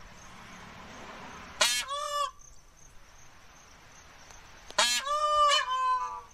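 A large bird calls loudly twice, about three seconds apart, in a nasal, honking voice: the first call short, the second longer and dropping in pitch near its end.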